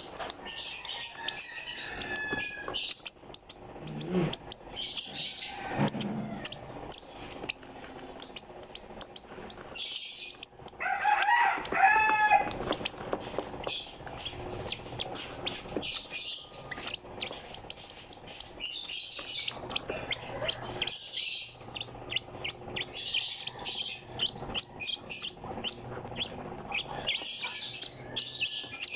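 Young hand-fed African lovebird chirping over and over in short, high, raspy bursts. About eleven seconds in, a louder and longer call with a wavering pitch stands out over the chirps.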